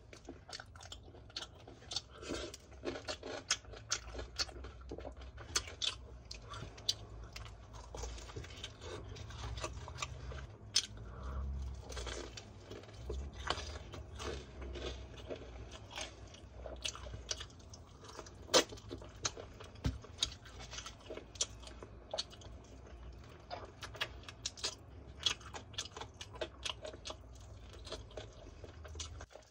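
Close-up chewing and biting of crispy fried chicken, with a steady run of short, sharp crunches from the coated skin throughout.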